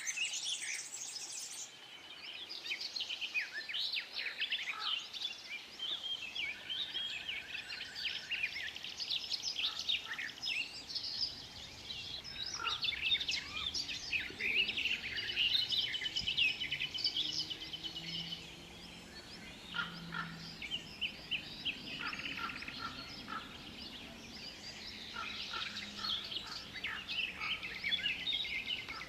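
Many birds chirping and singing at once in a dense, overlapping chorus of short high calls and trills. Faint low tones come and go in the second half.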